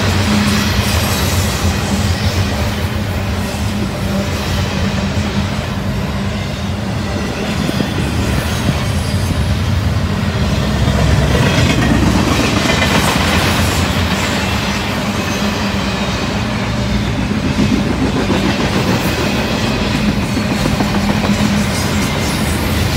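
CSX intermodal freight train's double-stack container well cars rolling past: a steady, loud rumble of steel wheels on the rails.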